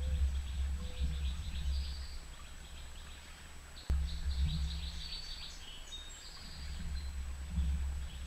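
Small songbirds chirping and twittering in quick, high notes, over a steady low rumble; a single sharp click just before the middle.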